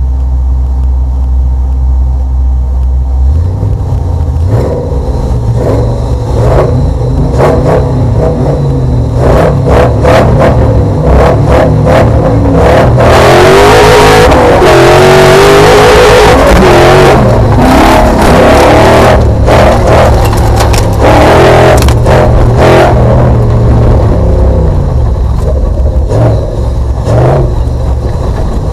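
Audi V8 engine of an off-road racing special heard from inside the cabin: idling steadily, then revved up about three seconds in and run hard under acceleration, the pitch rising and falling with the throttle. A loud rushing noise swells in the middle, with repeated knocks and clatter throughout.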